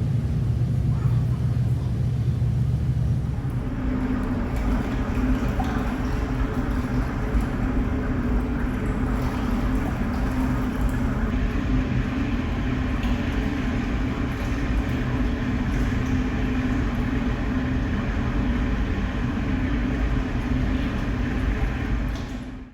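Steady low drone of a large car ferry's engines and machinery heard on board, with a steady hum in it. About three and a half seconds in it changes to a fuller, noisier rumble, and it cuts off suddenly at the end.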